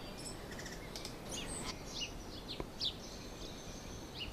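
Birds chirping: scattered short, high chirps and quick sliding notes. A steady high trill or buzz joins in for the last second or so.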